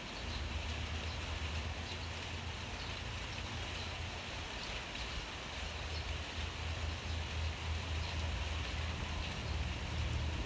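Steady rain falling, with scattered drop ticks over a continuous hiss and a steady low rumble underneath.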